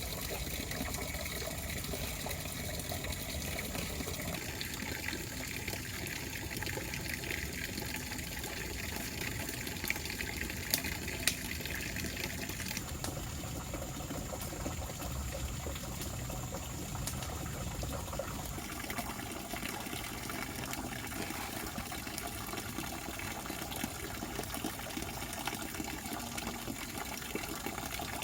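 Steady rushing of water, with a few faint knocks about ten seconds in.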